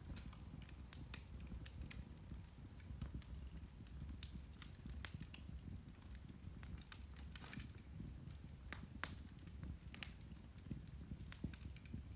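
Turf (peat) fire burning with irregular sharp crackles and pops, several a second, over a low steady rumble.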